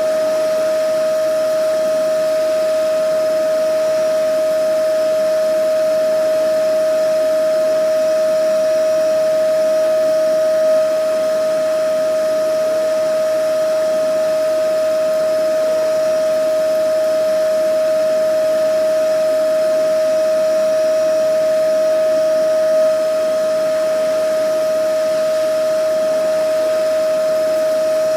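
Vacuum cleaner motor running continuously at a steady speed: a constant airy rush with a single high-pitched whine held on one note.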